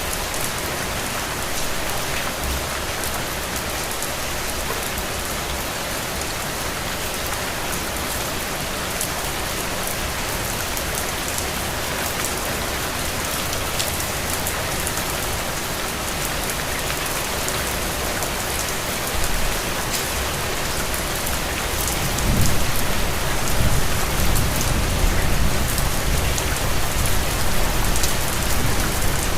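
Steady rain falling on surfaces, a dense even patter. About three-quarters of the way through, a low rumble builds beneath the rain and continues.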